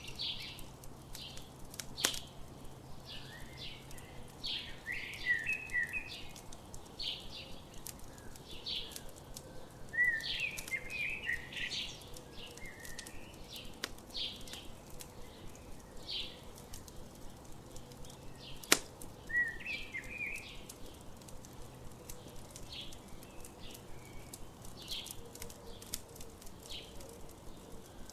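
Campfire crackling with scattered clicks and two sharper pops, under repeated chirps and short trills of songbirds.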